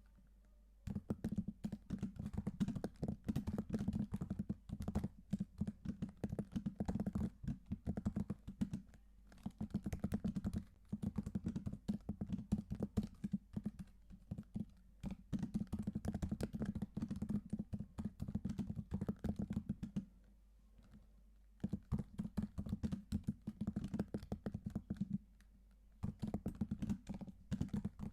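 Typing on a computer keyboard: quick, dense runs of key clicks, broken by short pauses, the longest lasting under two seconds about two-thirds of the way through.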